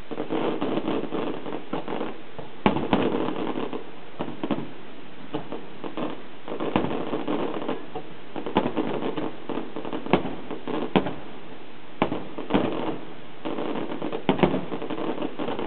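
Fireworks display: aerial shells bursting in an irregular run of sharp bangs, a dozen or so, with a dense crackling wash between them.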